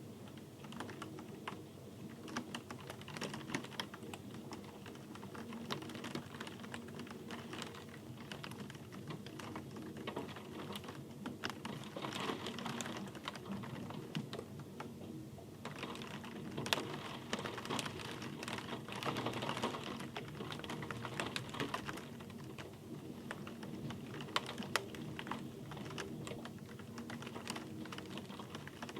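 Rain falling: a dense, irregular patter of individual drops ticking, growing a little heavier in the middle stretch.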